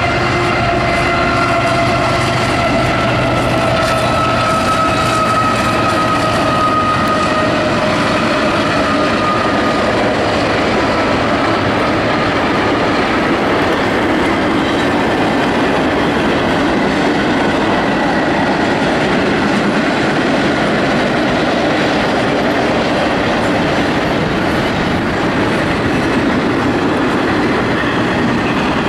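A double-stack intermodal freight train led by two GE Tier 4 diesel locomotives rolling past at speed. The locomotives' tone slowly falls in pitch over the first ten seconds or so, then steady wheel-on-rail noise and clickety-clack from the container cars carry on.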